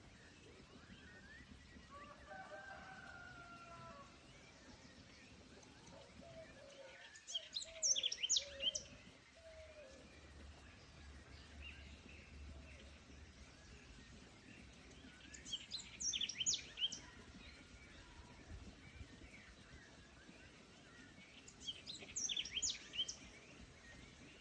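Songbird singing the same short, fast phrase of high chirps three times, about every seven seconds, over faint steady forest background. A lower, drawn-out wavering bird call sounds in the first ten seconds.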